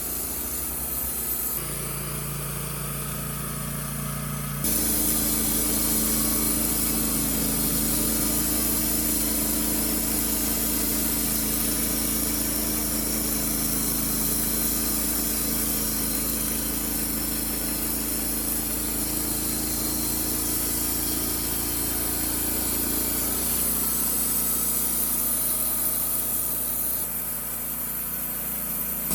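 Wood-Mizer LT15 Wide portable bandsaw sawmill running steadily. The sound steps up about five seconds in and drops back near the end.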